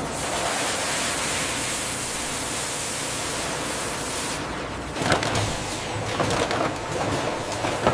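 Food-processing machinery: a steady hiss for the first four seconds or so, then from about five seconds in an irregular clatter of knocks and clicks over a low hum.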